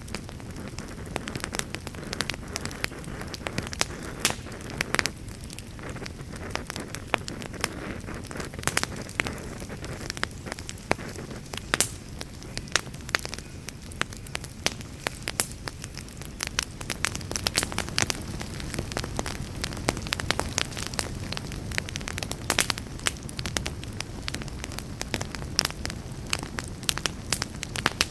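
Wood campfire crackling, with frequent irregular sharp pops and snaps over a low steady rush.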